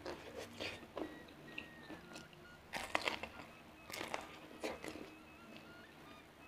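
Raw bitter melon being bitten and chewed: a series of sharp, crisp crunches, the loudest about three seconds in.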